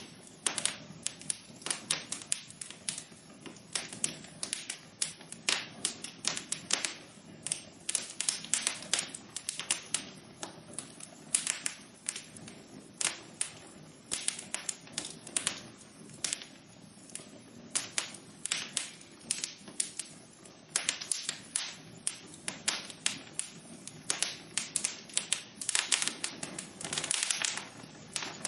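Wood fire in a fireplace crackling: irregular sharp pops and snaps, several a second, over a soft steady hiss of flames.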